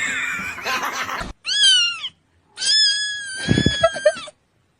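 Domestic cat meowing twice: a short meow that rises and falls about a second and a half in, then a longer, high, held meow that drops at the end.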